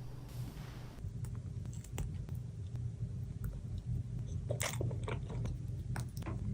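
Scattered small crunches and clicks, clustering about four to five seconds in, over a steady low hum.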